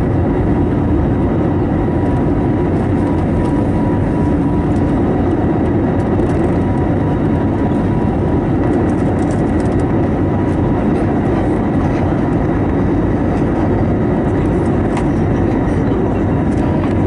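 Steady cabin roar of an Airbus A321neo climbing, its CFM LEAP-1A engines at climb power, with a faint steady whine over the rushing air.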